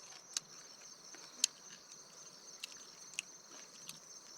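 Steady high-pitched insect chorus, crickets or cicadas, with a few short sharp clicks or snaps scattered through it.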